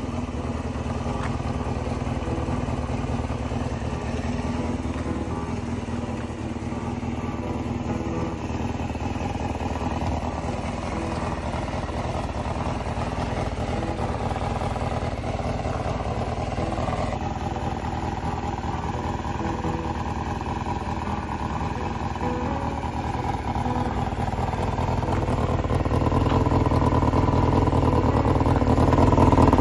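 Honda Jade 250's inline-four engine running steadily, getting louder near the end.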